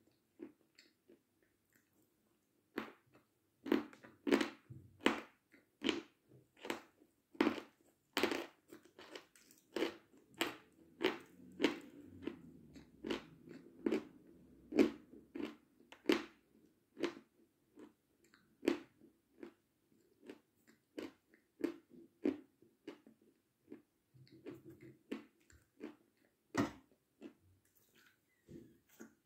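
Close, crisp crunching as a person bites and chews hard white pieces, many sharp crunches a second at their busiest, thinning out toward the end.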